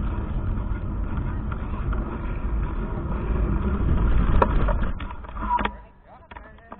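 Wind buffeting and rumbling on a bike-mounted GoPro microphone while riding, with a sharp click about four and a half seconds in; the rumble drops away suddenly near the end as the bike slows.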